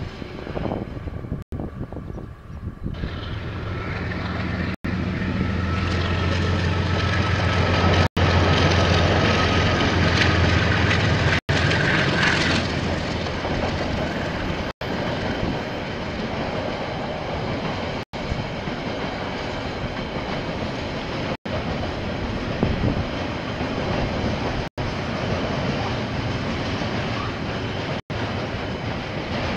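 A KiwiRail train passing: a diesel locomotive's engine hum builds from about three seconds in and is loudest midway, then the rest of the train rolls by with a steady rumble. The recording cuts out for an instant every three seconds or so.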